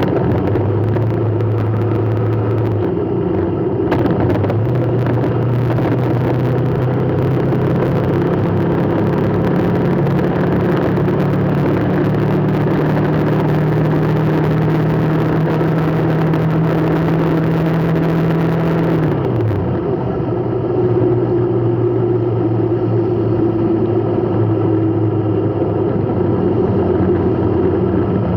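Road vehicle engine running, its pitch climbing slowly for about fifteen seconds and then dropping sharply, along with a steady hiss that cuts off at the same moment, about two-thirds of the way in.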